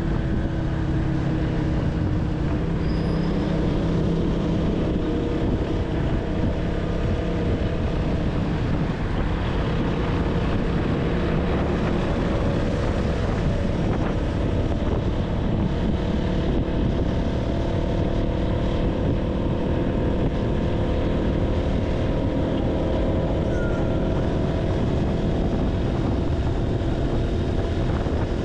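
Single-cylinder engine of a KTM Duke 200 motorcycle running steadily on the move, its pitch drifting slowly up and down over a constant rush of road noise.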